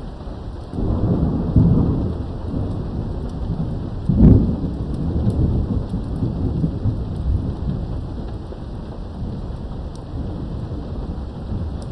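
Thunderstorm: steady rain with thunder rolling in about a second in. A sharper, louder clap comes just after four seconds, then the rumble tails off under the rain.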